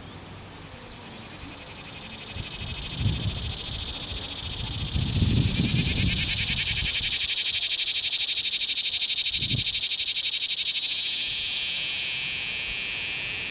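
A cicada's fuzzy, buzzing song swells from faint to loud and steady over a few seconds, then eases off near the end. A few low thumps sound beneath it.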